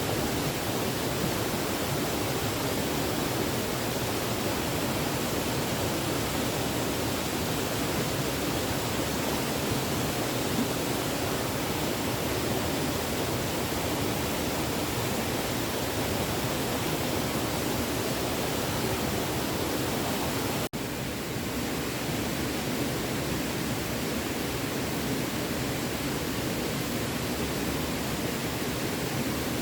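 Water of a small stream running steadily, an even wash of sound. About 21 seconds in it breaks off for an instant and carries on a little quieter.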